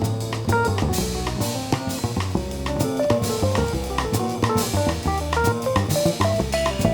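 Live jazz group playing: a drum kit keeps time with cymbals and snare under a moving bass line, while a lead instrument plays a running line of quick single notes.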